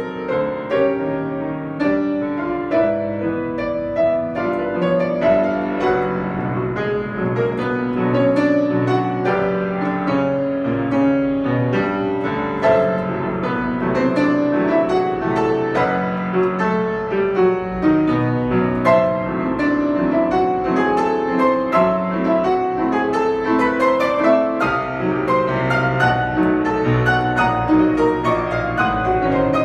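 Solo piano playing a fast, busy passage of many quick notes, at an even level.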